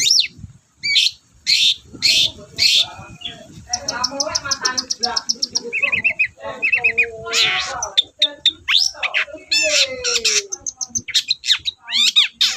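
Long-tailed shrike (cendet) in full song: a loud, varied run of harsh chattering strokes, a fast series of ticks, short trills and a falling whistled slur, typical of the species' mixing in of other birds' calls.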